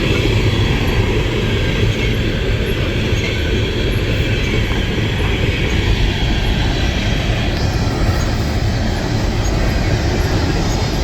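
Empty coal train cars rolling past on the rails with a steady heavy rumble; a brighter, higher hiss joins about seven and a half seconds in.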